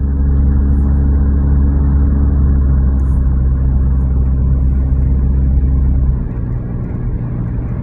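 Car driving, a steady low engine and road drone heard from inside the cabin; the drone drops in level about six seconds in.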